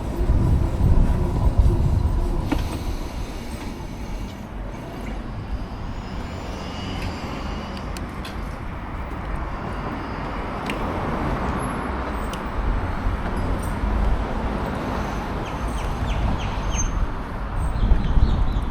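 Steady wind rush and road noise from riding a Savic C3 electric motorcycle, with no engine note.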